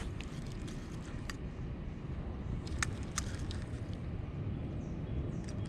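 Steady low rumble of outdoor background noise with a few faint sharp clicks scattered through it.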